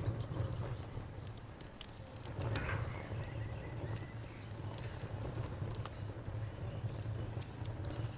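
Campfire crackling with scattered sharp pops, over a steady pulsing high cricket trill and low frog croaking.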